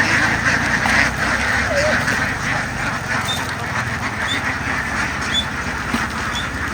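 A large flock of ducks quacking all at once, a dense, unbroken chatter.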